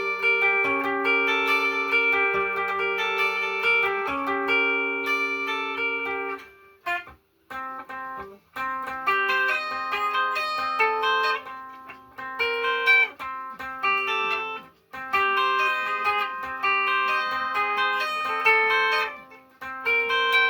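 Guitar playing alone: picked single notes over held low bass notes, with brief pauses about seven and fifteen seconds in.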